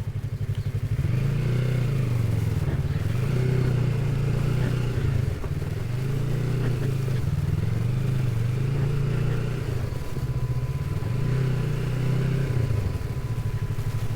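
Motorcycle engine under way, its revs climbing and dropping several times as the rider works the throttle and gears.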